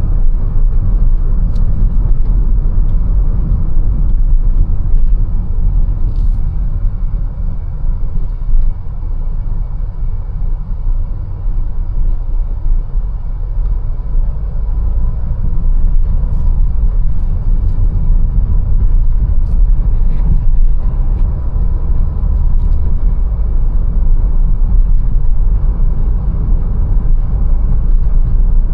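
Mercedes-Benz A180 on the move, a steady low engine and road rumble that eases slightly for a few seconds around the middle, with a few faint clicks.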